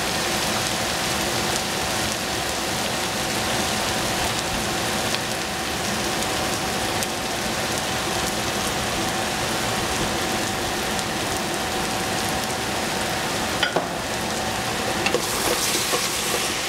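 Eggplant frying in a hot pan, a steady sizzle throughout. A few light clicks of a utensil against the pan come near the end.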